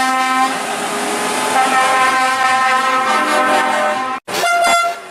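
Truck air horns sounding multi-note chords in long blasts, the chord changing a couple of times. A sudden break about four seconds in, then a shorter blast.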